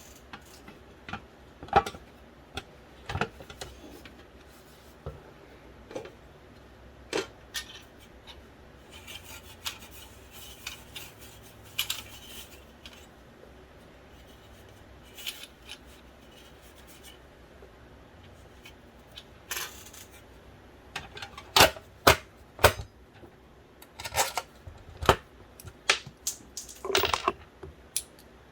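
Irregular clicks, taps and light clatter of small plastic and metal parts and screws being handled and fitted on an original Xbox Philips DVD drive, with quick bunches of clicks near the end.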